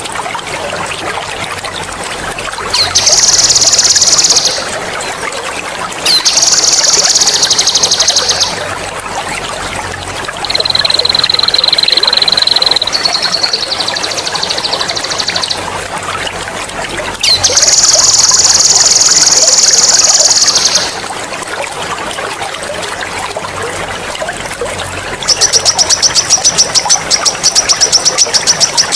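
Songbird singing long, loud, high-pitched rolling trills (the 'ngerol' song used for bird mastering), six phrases of two to four seconds each, the last a fast stuttering trill, over a continuous trickling, gurgling water sound.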